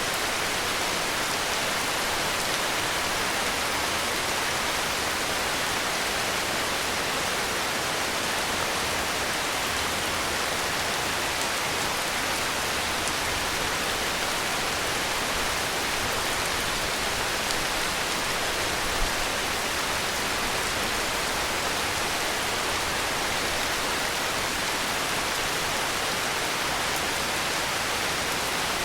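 Heavy rain falling steadily, an even, unbroken hiss with no variation in strength. A single brief tick a little past halfway.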